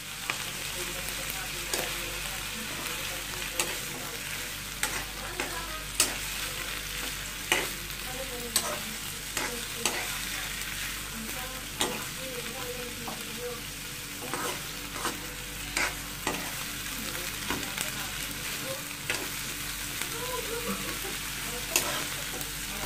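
Shelled clam meat and chopped onions sizzling in oil in a wok, stirred with a metal spoon that clicks and scrapes against the pan every second or so over the steady frying hiss.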